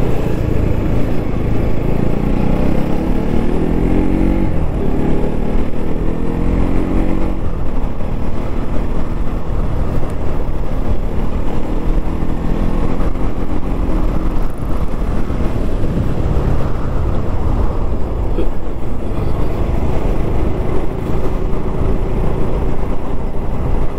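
Bajaj Pulsar NS200's single-cylinder engine heard from the rider's seat while cruising, its pitch climbing several times as it accelerates. A steady wind rumble on the microphone runs under it.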